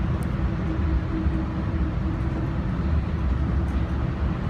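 Airport shuttle train running along its elevated guideway, heard from inside the car: a steady low rumble with a faint hum running under it.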